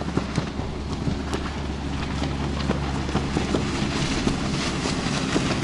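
Rescue boat's engine droning steadily as it passes on the water, with a noise haze that swells a little toward the end.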